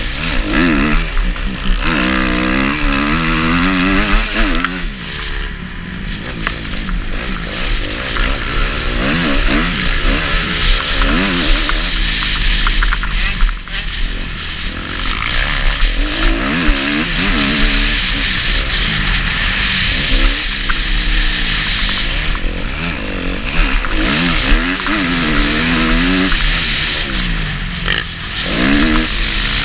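Kawasaki KX250F four-stroke motocross bike engine being ridden hard. Its pitch climbs and drops every second or two as the throttle is opened and closed and gears change, with a steady rushing hiss under it.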